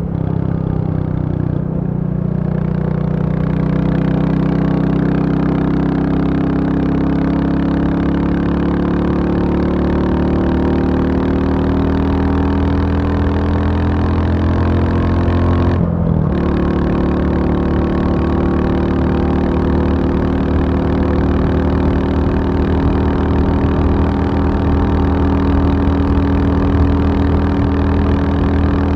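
Royal Enfield Bullet 350 single-cylinder engine running, its pitch climbing slowly over the first half. A brief break comes about halfway through, then the engine runs steadily.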